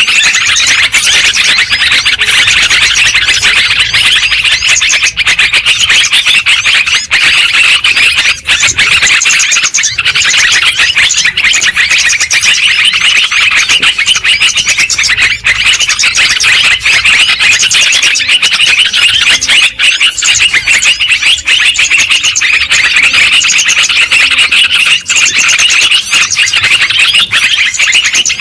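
Yellow-vented bulbuls (terucukan) chattering noisily, a dense, continuous flurry of overlapping chirps and calls, as used in a bird-trapping lure recording.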